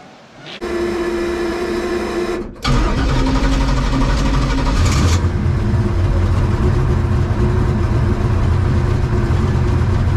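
Race car's V8 engine running with a steady note, then from about two and a half seconds in, much louder and held at high revs.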